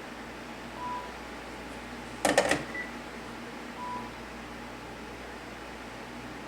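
Cordless phone handset set back on its base as it registers: a clatter of sharp plastic clicks about two seconds in with a short higher beep, and two short single-tone beeps about three seconds apart.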